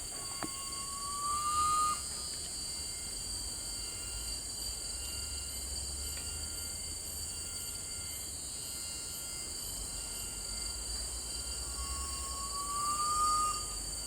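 Garnet pitta giving its call twice, about ten seconds apart: a long, drawn-out whistle of nearly two seconds that rises slightly in pitch. Insects keep up a steady high hiss throughout.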